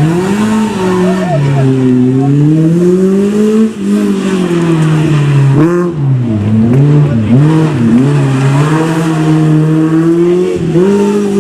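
Rally car engine being driven hard, its pitch climbing under throttle and dropping sharply with gear changes and throttle lifts several times, then held steady near the end.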